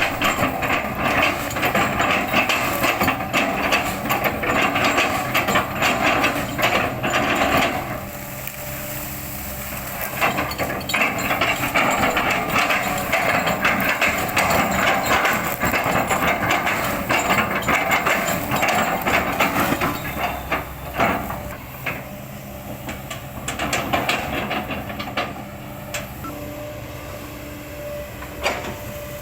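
Kobelco excavator running while its bucket chops and crushes an oil palm trunk, with dense crackling and splintering of the fibrous wood over a steady engine hum. The crunching eases off about eight seconds in, picks up again a couple of seconds later, and thins out after about twenty seconds.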